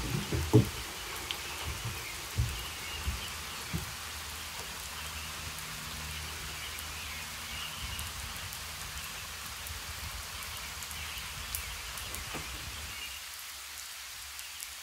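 Steady rain falling, an even hiss of drops, with a few soft low thumps in the first four seconds.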